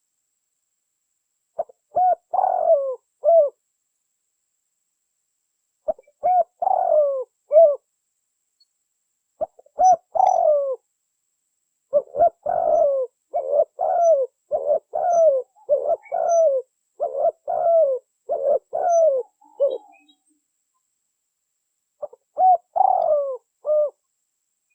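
Spotted dove cooing in repeated phrases of a few notes each, separated by pauses of a couple of seconds. Midway it breaks into a faster run of short coos lasting several seconds before settling back to single phrases.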